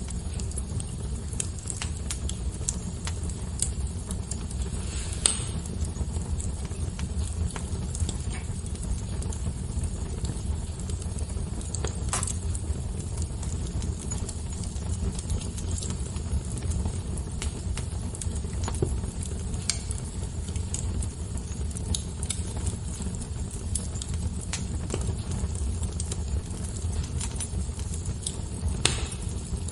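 Fire crackling: frequent small pops over a steady low rumble, with louder pops about five seconds in, about twelve seconds in and near the end.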